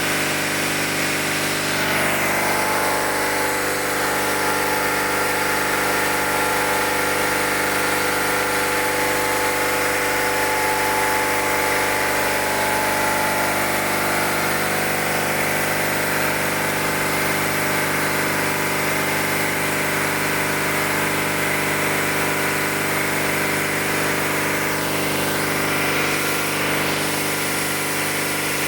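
Fire pump engine running steadily at a constant speed during a test run: an even, unchanging mechanical hum made of many steady tones.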